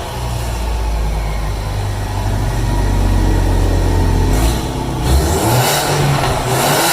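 Ford Mustang 2.3 EcoBoost turbocharged four-cylinder running through an aftermarket stainless-steel exhaust with custom downpipe: a steady low note for about four seconds, then the engine note changes and rises as it revs.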